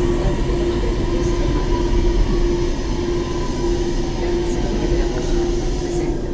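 Thessaloniki Metro train running through the tunnel, heard from inside the carriage: a steady rumble with a constant hum, and a fainter whine that slowly falls in pitch as the train slows to approach the station.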